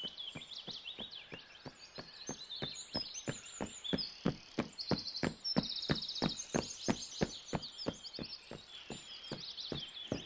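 Cartoon running footsteps effect: a quick, even patter of soft thuds, about three to four a second, over a background of birds chirping.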